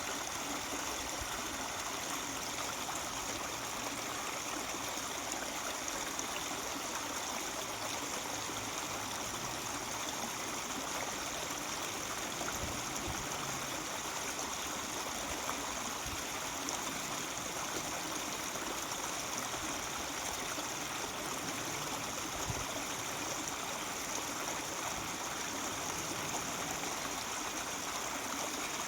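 Mountain stream babbling and gurgling steadily over rocks.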